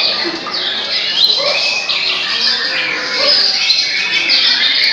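Many caged white-rumped shamas (murai batu) singing at once in a competition. Loud, dense, overlapping whistles, chirps and rapid rising and falling notes with no break.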